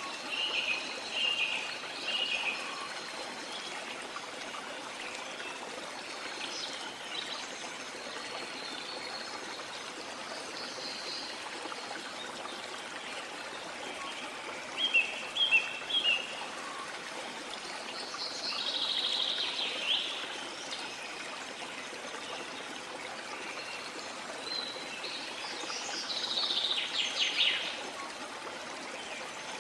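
Steady wash of sea water with small birds chirping over it. Some chirps come near the start, a sharp run of three loud chirps about halfway, and longer bouts of twittering later on and near the end.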